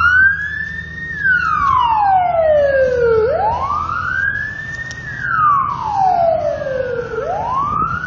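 Emergency vehicle siren in a slow wail, its pitch rising and then falling in cycles of about four seconds, with two full cycles heard. A low vehicle rumble runs underneath.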